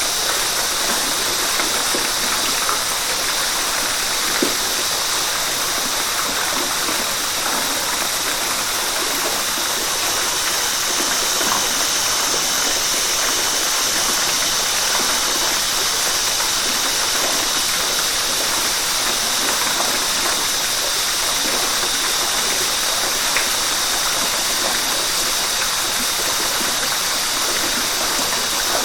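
Flowing river water rushing over rocks: a steady, even rush with a bright, hissy top and no breaks.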